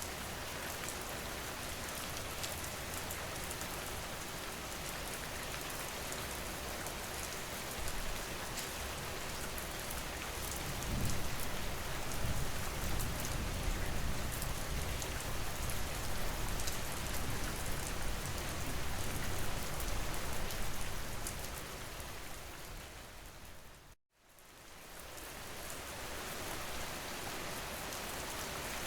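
Steady rain falling on a surface, with fine drop patter. A low rumble swells for about ten seconds in the middle; about 24 seconds in the rain fades out to silence for a moment and fades back in, as at a loop point of the ambient track.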